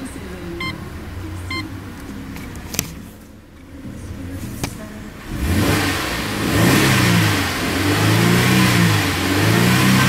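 Holden Commodore engine revved in park: from about five seconds in it rises and falls several times, the tachometer reaching about 4,000 rpm. Before that it is quieter, with a couple of short chime beeps and clicks.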